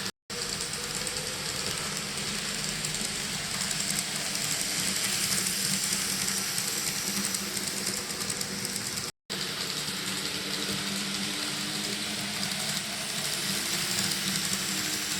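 N-scale model train running on its track: a steady motor hum with the hiss of wheels on rail. The sound cuts out twice for a moment, just after the start and about nine seconds in.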